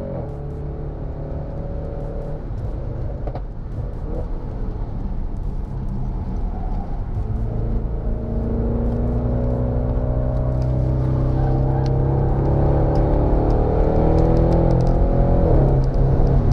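MTM-tuned Audi RS6 Clubsport's twin-turbo V8 heard from inside the cabin: running evenly at first, then accelerating hard with its pitch rising and a short break at an upshift near the end, growing steadily louder.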